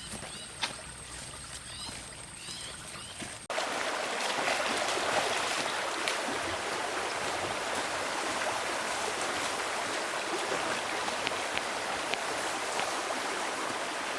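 A faint steady high tone and a few short chirps, then an abrupt cut about three and a half seconds in to the loud, steady rush of flowing water.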